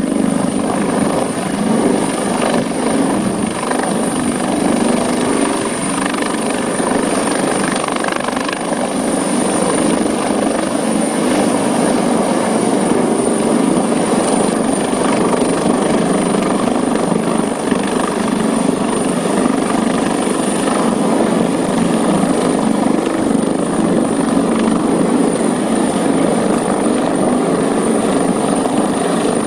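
Helicopter running steadily and close, a loud unbroken rotor and engine noise with a thin steady high whine over it.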